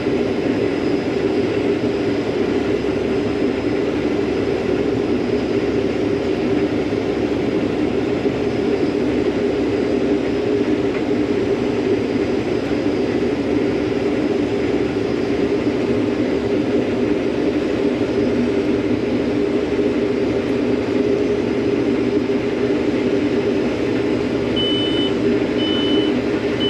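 Combine harvester running steadily while cutting wheat, a constant machine drone. Near the end three short, evenly spaced high electronic beeps sound.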